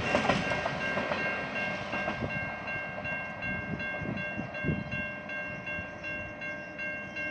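Level-crossing warning alarm beeping in a steady rapid pattern while a passing train rumbles and clatters over the rails, fading as it moves away.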